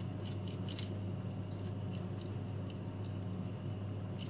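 A low steady hum with about a dozen faint, light clicks scattered through it.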